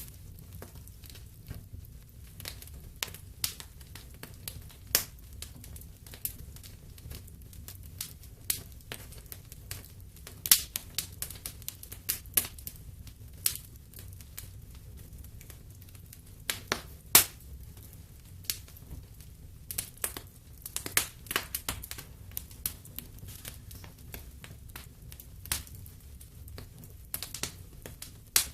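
Wood fire crackling in a fireplace: irregular sharp pops and snaps, some loud, over a low steady rumble of burning.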